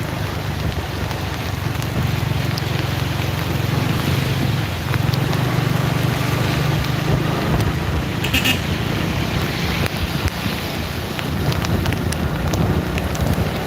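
Steady low engine and road drone from a vehicle on the move in heavy rain, with wind buffeting the microphone and a hiss of rain. A short, higher-pitched sound cuts through about eight and a half seconds in.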